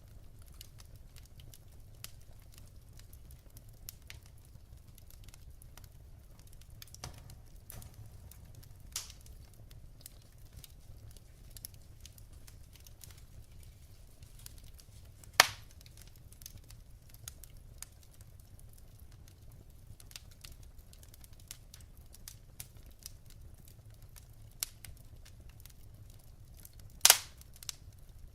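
Wood fire burning in a fireplace, crackling with scattered faint crackles and two loud pops, one about halfway through and a sharper double pop near the end.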